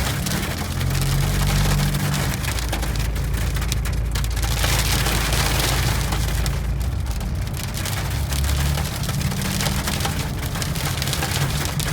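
Hail pelting down, a dense, continuous crackle of countless small hits, with a low steady hum beneath it.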